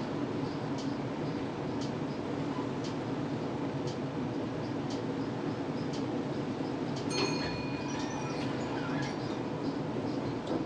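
Tram running, heard from inside the car: a steady rumble with a faint regular tick about once a second. About seven seconds in, a brief high steady tone with a few clicks sounds for about two seconds.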